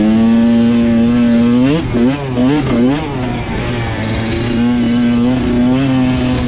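Dirt bike engine running at a steady pitch, with a few quick revs up and down about two seconds in, then holding steady again.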